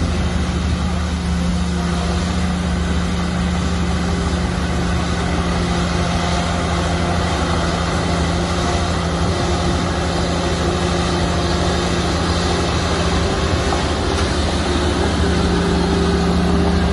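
Heavy diesel engine of earthmoving machinery running steadily under load, a little louder near the end.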